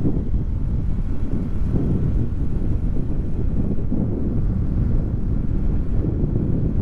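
Wind buffeting the microphone: a low, fluttering rumble that holds steady throughout.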